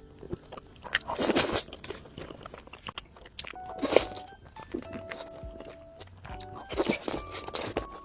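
A person biting and chewing crunchy food close to the microphone, in three bursts of crunching about three seconds apart, over quiet background music.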